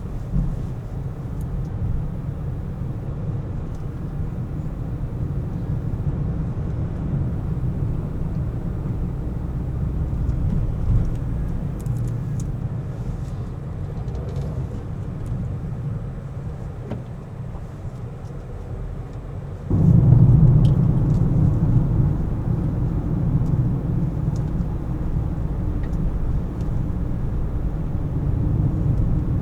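A car driving through city traffic, its engine and tyres making a steady low rumble. About two-thirds of the way through, the rumble jumps suddenly louder and stays there.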